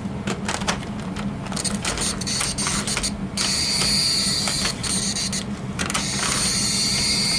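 Model F40PH locomotive being handled and set onto the track: a run of light plastic clicks and taps as its wheels are seated on the rails, then a steady hiss from about halfway through.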